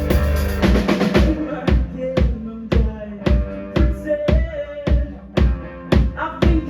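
Live rock band playing: drum kit hitting a steady beat of kick and snare about twice a second over sustained guitar notes. A high cymbal wash drops out about a second in.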